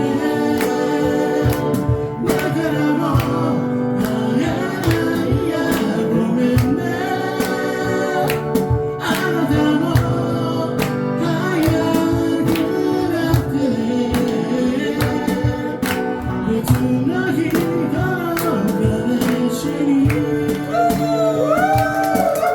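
Live band playing the song, with singing over a steady drum beat and guitar.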